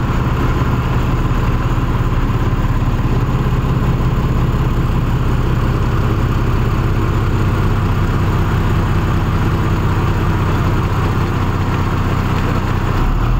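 Tata truck's diesel engine idling steadily, a constant low hum.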